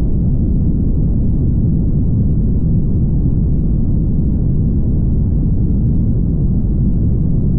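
Steady low rumble of a car driving at highway speed: even road and wind noise with no engine note or other event standing out.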